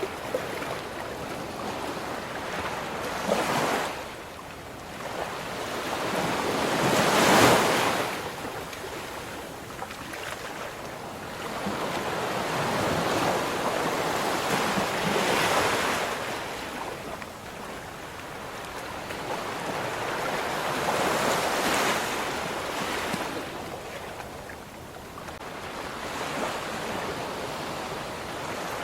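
Ocean waves breaking and washing on a shore, swelling and fading in slow surges every several seconds. The biggest breaker comes about seven seconds in.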